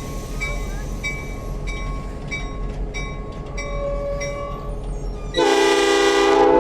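Diesel locomotive, a GP38-2, idling while its bell rings in a steady rhythm of strikes; about five seconds in, its air horn sounds a loud chord.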